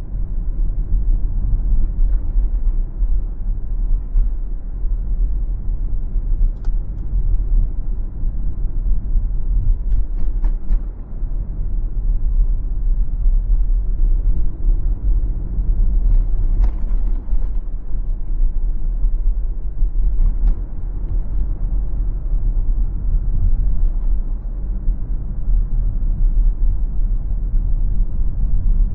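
A car driving on city streets: a steady low road rumble with tyre noise, and a few faint clicks or knocks now and then.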